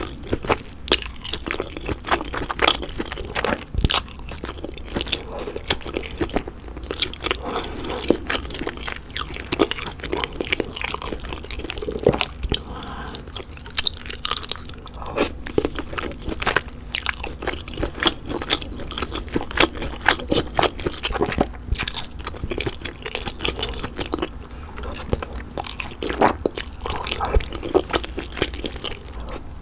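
Close-miked eating of chewy bunmoja and glass noodles: continuous chewing and biting with many quick, irregular wet clicks.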